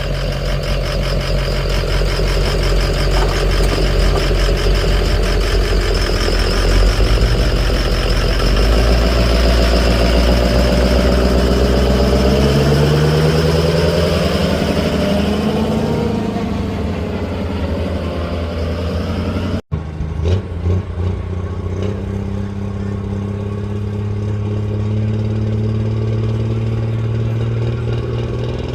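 A pulling truck's engine runs hard and loud, then its revs wind down over a few seconds. After an abrupt cut, a truck engine idles steadily.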